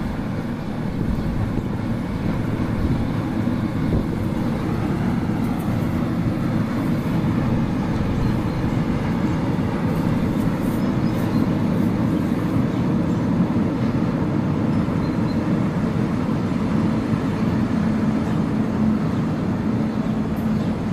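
Freight train of tank wagons behind a diesel locomotive rolling across a steel girder bridge: a steady low rumble.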